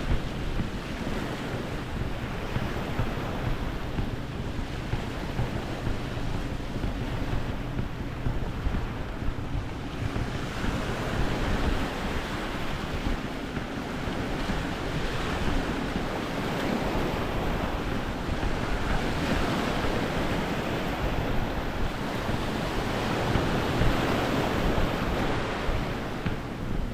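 Small waves washing onto a sandy beach, swelling every few seconds, with wind rumbling on the microphone.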